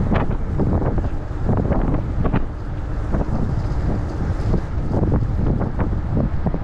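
Wind buffeting the microphone: a heavy, steady low rumble broken by frequent irregular crackling gusts.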